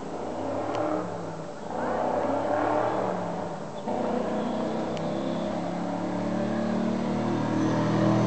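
LS2 V8 engine in a swapped Nissan 240SX running and revving. The note dips twice and then grows steadily louder toward the end.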